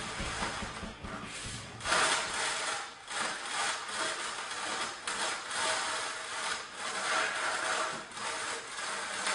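Background music ends about two seconds in. After that comes a run of rough scraping strokes, each about half a second long: a hand tool dragged through wet self-leveling floor underlayment to spread it.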